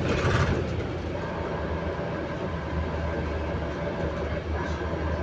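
Interior noise of a moving London bus: a steady low drone from the drivetrain under road and rattle noise, briefly louder at the very start. This is the odd running noise the bus makes as it moves.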